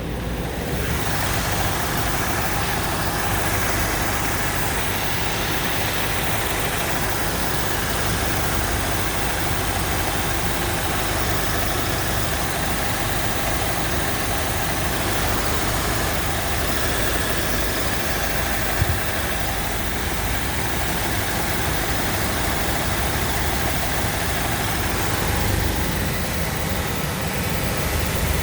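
Car engine idling steadily while its cooling system is burped of air after a coolant flush. There is one short click about two-thirds of the way through.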